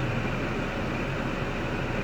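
2005 Cadillac STS's 3.6-litre LY7 V6 idling steadily after a restart.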